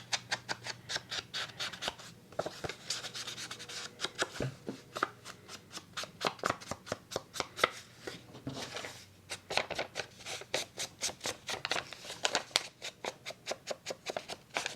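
Paper being worked by hand: quick, repeated rasping strokes, a few per second, with short pauses between runs.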